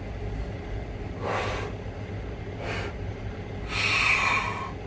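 A man blowing warm breath into his cupped hands against the cold, three breathy blows, the last and longest about four seconds in, over a steady low hum.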